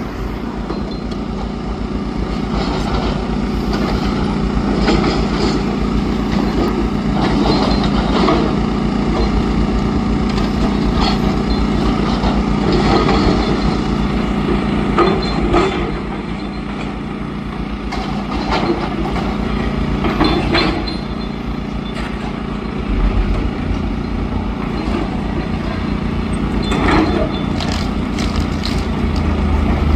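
Demolition excavator's diesel engine running steadily under load, with irregular crunches and knocks from masonry being pulled down, about half a dozen across the stretch.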